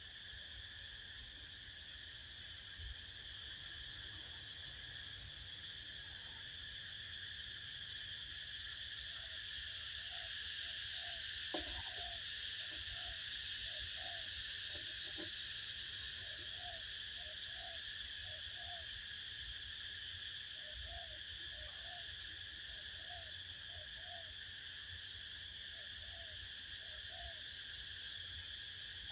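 Steady, high insect chorus, with a string of short low hooting calls in groups of two to four starting about a third of the way in.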